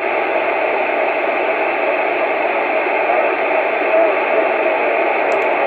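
CB radio receiver hissing with steady band static through its speaker between transmissions, as reception fades in rough skip conditions.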